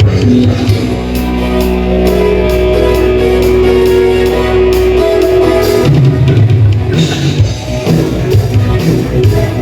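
Live band music: drum kit, guitar and bass playing an instrumental passage, with held chords and bass for about six seconds before the drums come in with a steady rock beat.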